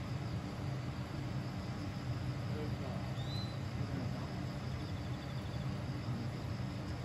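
Meitetsu 6000 series electric train standing at the platform with a steady low hum from its running equipment, insects chirping faintly, and one short high chirp about three seconds in.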